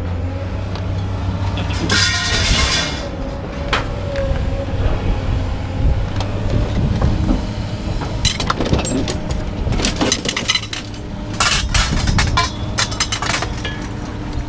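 Scrap metal being unloaded: a scraping rush about two seconds in, then a run of sharp metal clanks and knocks in the second half, over a steady engine hum.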